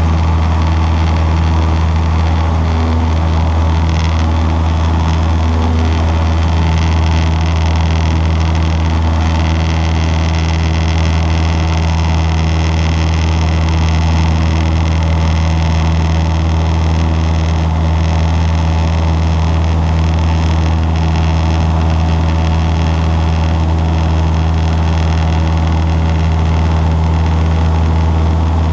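Cessna 152's four-cylinder Lycoming piston engine and propeller running at a steady setting, a loud, even drone that holds without change.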